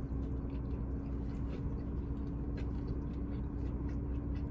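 Faint chewing and mouth noises of someone eating a large burger, a few soft clicks, over a steady low hum with one held tone.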